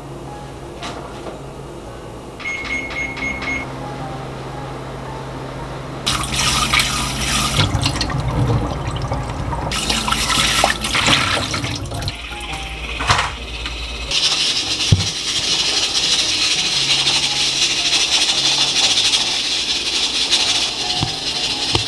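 Kitchen tap running into a sink: on and off for several seconds, then steadily through the last third, with a few knocks in between. Near the start an appliance gives five short high beeps over a low steady hum.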